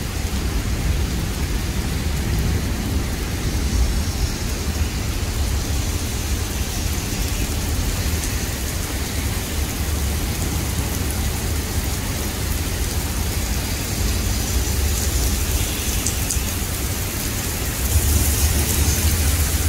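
Heavy rain falling on an asphalt road: a steady hiss of drops splashing on the wet surface over a steady low rumble. It grows a little louder near the end.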